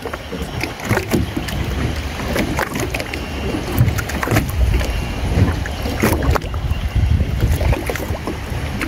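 Sea water slapping and sloshing against the hull of a small fishing boat, with irregular small splashes and knocks.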